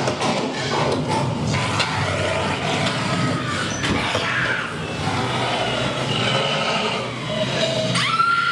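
Ghost train ride car rolling and clattering along its track, mixed with the ride's effects. Near the end a long steady high-pitched tone comes in.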